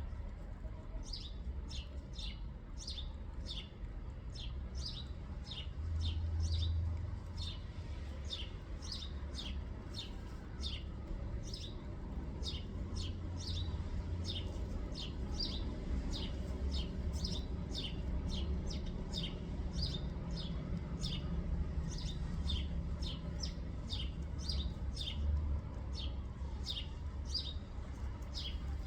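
A small bird chirping over and over, short quick chirps that drop in pitch, about two a second, over a steady low rumble.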